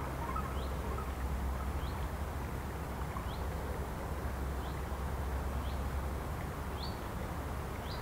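Outdoor ambience: a bird repeating a short rising chirp about seven times, roughly once a second, over a steady low rumble.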